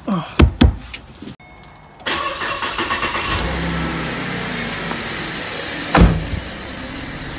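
Holden Commodore VE SV6's 3.6-litre V6 starting about two seconds in and then idling steadily. There are two sharp knocks just before it starts and another knock about six seconds in, which fits a car door shutting.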